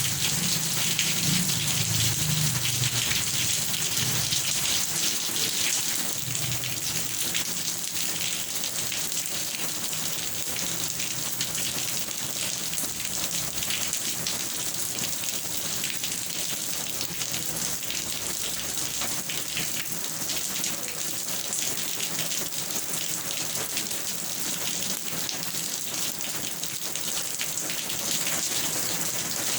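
Steady rain falling, a dense even hiss, with a low rumble during the first few seconds.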